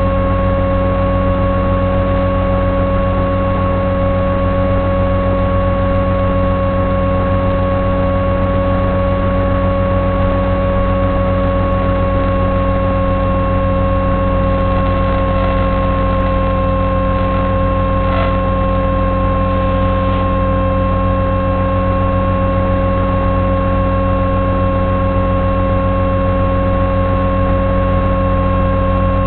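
Electric motor and propeller of an FPV flying wing running at steady cruise throttle: a continuous drone with a strong whine whose pitch holds nearly level, drifting only slightly lower.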